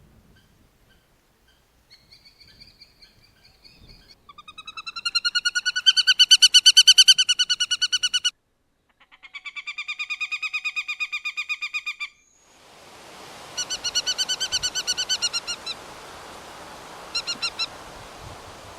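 A bird calling in fast series of evenly spaced, clear notes, several separate bouts: faint short notes at first, then a loud series that swells and peaks about six to eight seconds in. The later bouts sit over a steady hiss of background noise.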